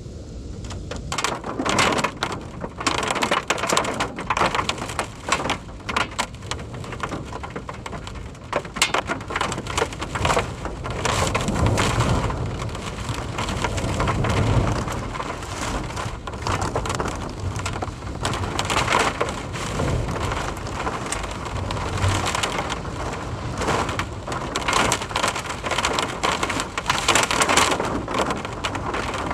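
Heavy rain in a thunderstorm, pelting down hard, with strong gusty wind that surges in loudness again and again.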